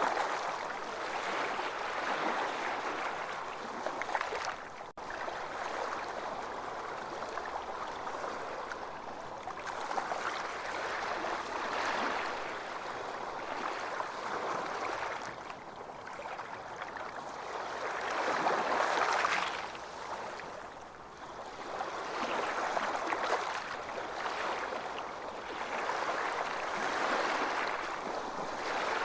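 Ocean waves washing onto a beach, the surf swelling and fading every few seconds, with a momentary dropout about five seconds in.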